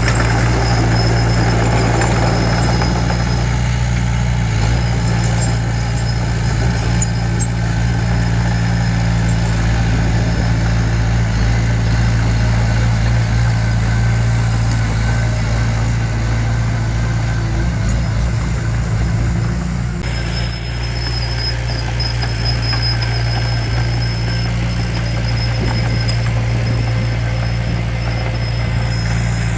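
Heavy diesel engine of earthmoving equipment running steadily, with an even low drone. The sound shifts abruptly about twenty seconds in.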